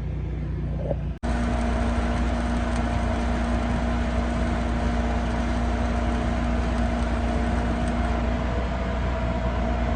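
Shielded metal arc (stick) welding with a 7018 electrode: a steady arc hiss over a low hum, striking up about a second in after a short cut-out and then burning evenly.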